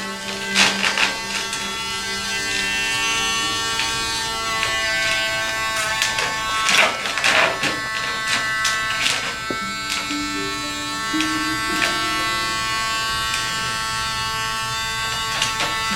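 Electric dog-grooming tool running with a steady buzz, with background music playing.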